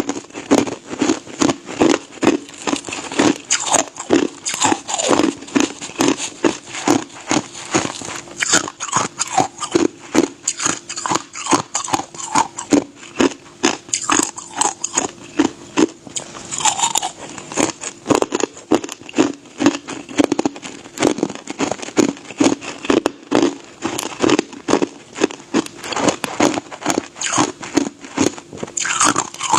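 Ice being bitten and chewed: a continuous run of sharp, crisp crunches, about two to three a second.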